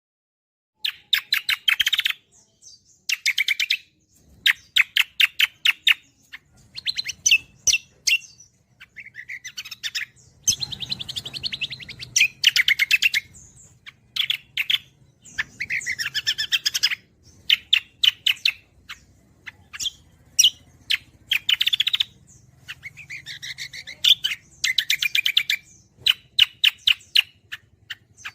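Cucak kombo songbird in full song, giving bursts of fast chattering trills a second or so long with short pauses between, over a faint low hum.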